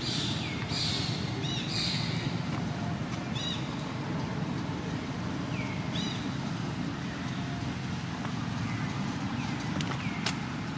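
Monkeys giving short, high-pitched squeals: a quick cluster in the first two seconds, then single calls now and then. Under them runs a steady low rumble.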